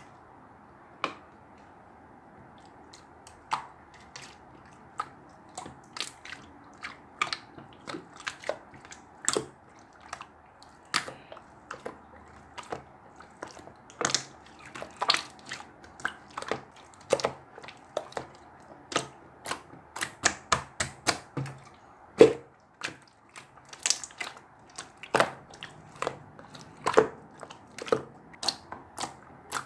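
Mixed slime being pressed and kneaded by hand, giving irregular sharp pops and clicks, sparse at first and then several a second, over a faint steady hiss.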